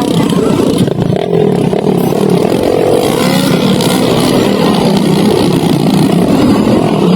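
Loud dirt bike engines running and revving, their pitch wavering up and down.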